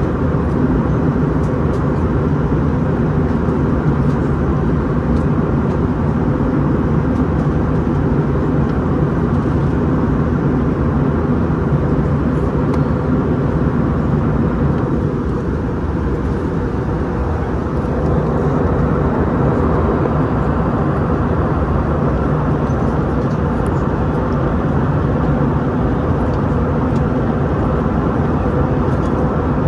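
Steady cabin noise inside an Airbus A321-211 airliner: a deep rumble of engines and airflow, easing slightly about halfway through and coming back a few seconds later.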